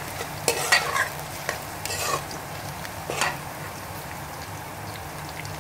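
Sliced onions and garlic sizzling in oil in a steel karahi while being stirred with a metal spoon, which clinks and scrapes against the pan several times in the first few seconds.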